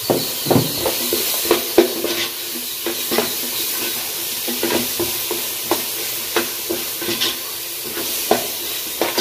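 Prawns and onion-tomato masala sizzling in a metal pot as a wooden spatula stirs them, with irregular scrapes and knocks of the spatula against the pot over a steady hiss of frying.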